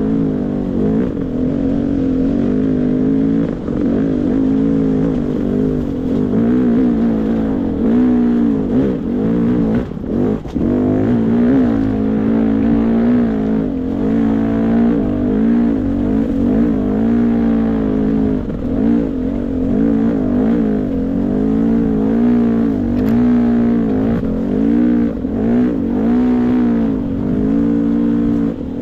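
Beta 300 RR two-stroke dirt bike engine being ridden along a trail, its pitch rising and falling every second or two with constant throttle changes.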